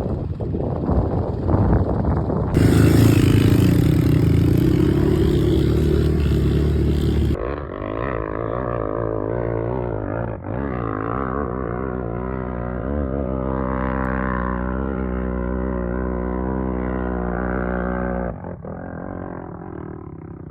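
Off-road vehicle engines running, in several short clips that change abruptly: a loud, rough stretch early on, then a steady engine note that wavers in pitch, then quieter near the end.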